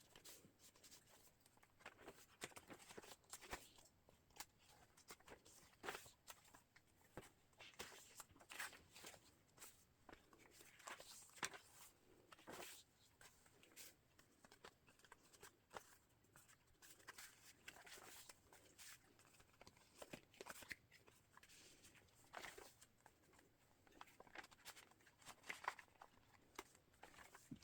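Faint, irregular rustling and soft taps of paper pages and tags being handled and turned in a handmade journal.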